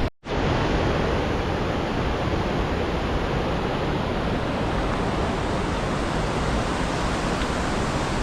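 Steady rush of a waterfall's falling water, a dense even roar, with a brief dropout just after the start.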